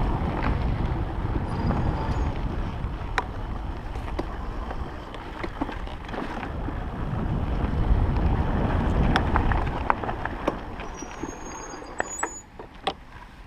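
Stayer Enduro electric bike riding over a rough forest road: a steady low rumble of tyres and wind on the microphone, with scattered clicks and knocks as the bike rattles over bumps. The rumble fades over the last few seconds as the bike slows.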